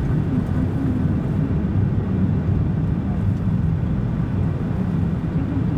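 A car driving at steady speed, heard from inside the car: a continuous low engine and road rumble.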